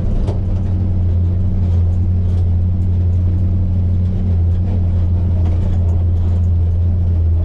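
Truck engine running steadily, heard from inside the cab as an even low hum.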